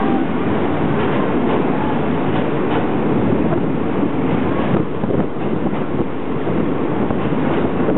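Passenger train running across a steel truss bridge, heard from an open carriage window: a steady rumble of wheels on the rails with scattered clacks.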